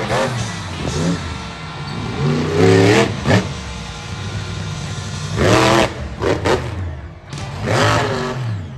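Monster truck engine revving hard in about four bursts, its pitch sweeping up and falling back each time.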